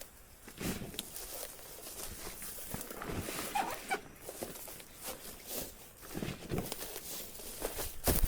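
Footsteps with irregular rustling, scraping and knocking handling noises, as of a protective rain cover being fitted over a small machine. A brief high squeak or chirp comes about three and a half seconds in.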